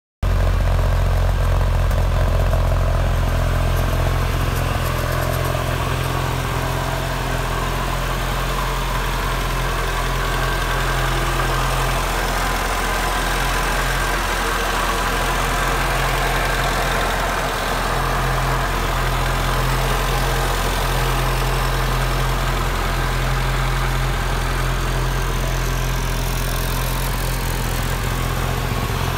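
Opel Manta GT/E's four-cylinder engine idling steadily, heard from beneath the car near the exhaust.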